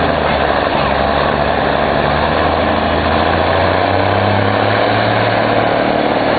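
Cummins NTC 230 hp diesel in a Brockway truck running steadily under load, its pitch rising a little about four seconds in.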